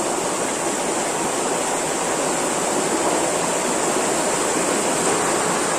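Water rushing steadily through a sluice gate, a loud, even, continuous rush.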